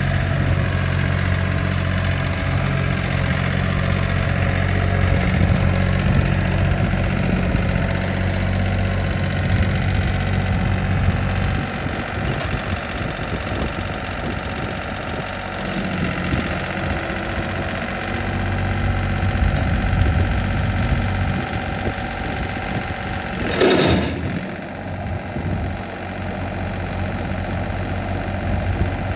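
John Deere 4310 compact tractor's three-cylinder diesel engine idling steadily. A brief rush of noise cuts across it once, near the end.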